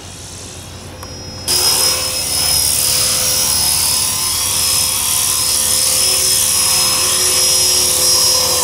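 Electric motor and rotor of an E-flite Blade 400 radio-controlled helicopter whining steadily in flight. About a second and a half in, the sound suddenly jumps louder with a rush of noise.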